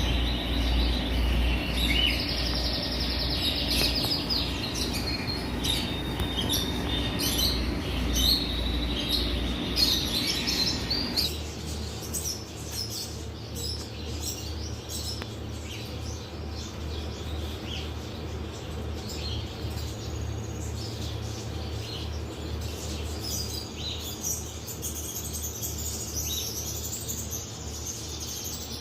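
Many small caged birds chirping and twittering together, with a steady low hum under them that changes abruptly about a third of the way through.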